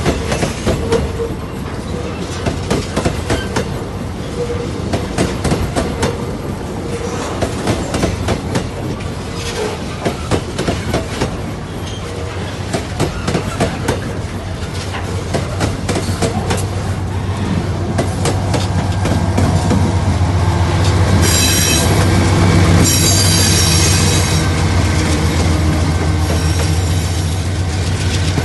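Freight train wagons rolling past a level crossing, wheels clattering rapidly over rail joints. About two-thirds through, a low steady drone grows louder, and a brief high-pitched wheel squeal comes a little later.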